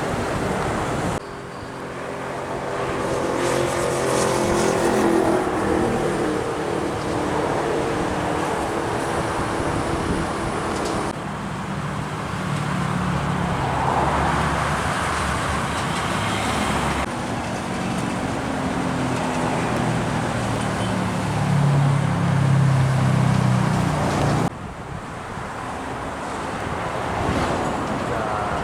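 Heavy trucks and other traffic passing on a busy road, their engines rising and falling in pitch as they go by, in several short stretches that change abruptly at cuts.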